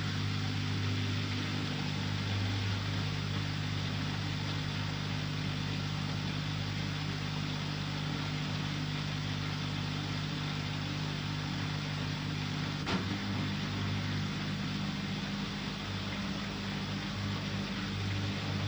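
Bosch Aqua Star washing machine running: a steady low motor hum with an even hiss over it. A single click comes about 13 seconds in.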